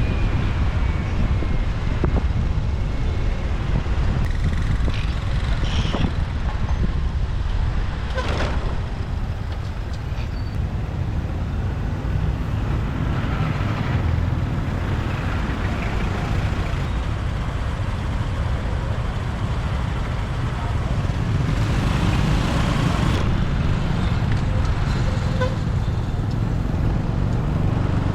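City street traffic heard from a moving motorbike: a steady low rumble of engine and wind, with other vehicles passing and now and then a short horn toot.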